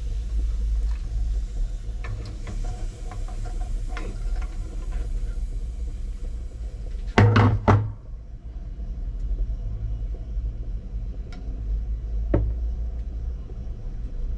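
Steady low rumble with scattered light clicks and knocks; a quick cluster of two or three loud knocks about seven seconds in.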